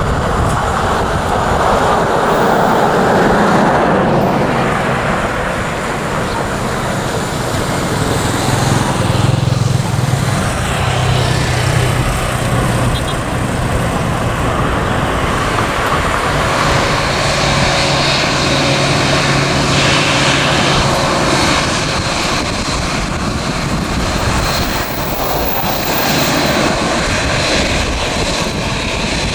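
Jet engines of a Boeing 787-8 airliner running, a steady noise with a low hum under it for a stretch in the middle.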